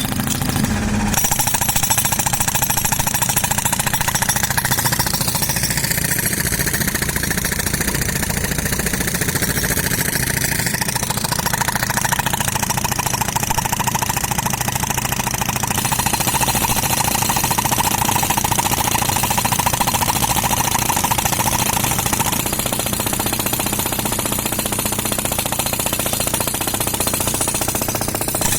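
Pneumatic concrete breaker hammering continuously at a rapid rate, starting about a second in. The air compressor's engine runs under it.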